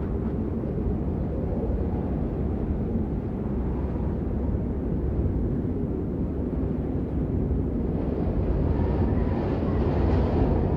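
Steady rain: a dense, even rushing noise weighted toward the low end, growing slightly brighter near the end.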